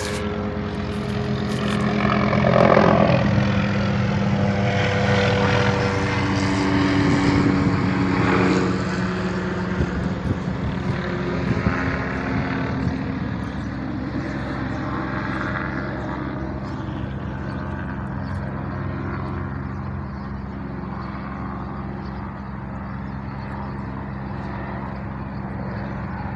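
Police helicopter flying overhead, a steady rotor and engine drone with a falling whine in the first several seconds, loudest about three seconds in and then slowly growing fainter as it moves away.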